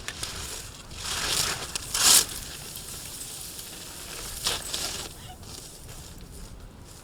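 Skis scraping and carving across hard-packed snow in slalom turns: hissing bursts as the edges bite, the loudest about two seconds in and another a couple of seconds later.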